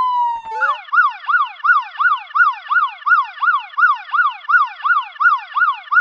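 Electronic police siren. A slow wail tone falls away in the first second, then after a brief click it switches to a fast yelp that rises and falls about three times a second.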